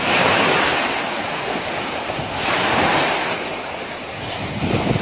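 Sea waves washing onto the shore, two surges of rushing water, the first right at the start and the second about two and a half seconds in, with wind rumbling on the microphone.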